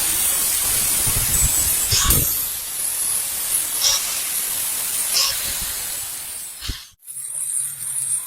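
A steady hissing spray that cuts off suddenly about seven seconds in, with a few brief clicks along the way.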